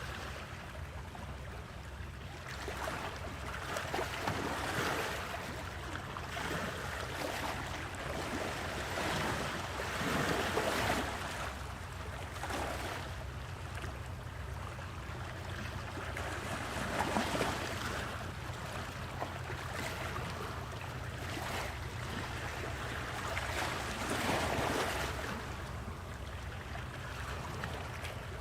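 Sea water splashing and rushing against a moving boat's hull in irregular surges a second or two apart, over a steady low engine drone.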